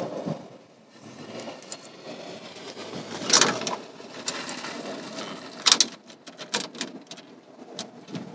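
Hand work on a car's engine-bay trim: scattered small clicks and rattles of a bolt and hardware being handled, with two louder scrapes or knocks, one about three seconds in and one near six seconds.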